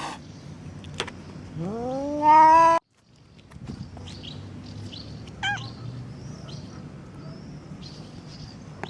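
White kitten making an angry, drawn-out meow that rises in pitch and cuts off abruptly about three seconds in, followed by a short, quieter mew a few seconds later.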